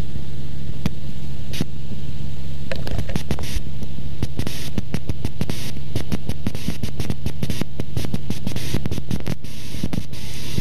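Cessna 172's four-cylinder engine droning steadily in the cabin, overlaid by crackling static and rapid clicks. The crackle is sparse at first and comes thick and fast from about three seconds in.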